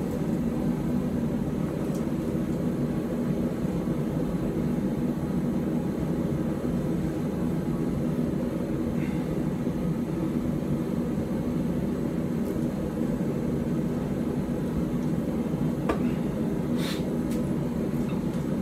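Forge running with a steady, even roar while the knife heats; there is no hammering. A few faint clicks come near the end.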